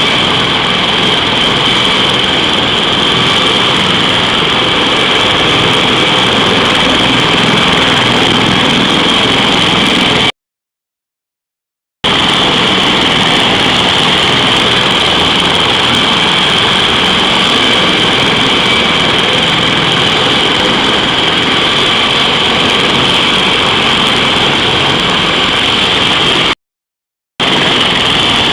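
CH-53E Super Stallion heavy-lift helicopter running steadily, its three turboshaft engines giving a strong high whine over the rotor noise. The sound cuts out to complete silence twice, once about ten seconds in for a second and a half and briefly near the end.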